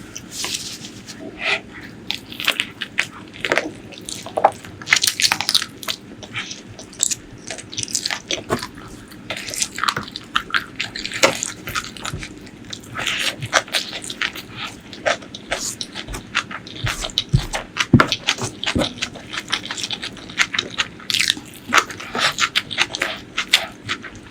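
Close-miked eating: wet chewing, crunching and sucking on spicy chicken feet and curry, a dense run of irregular clicks and crackles.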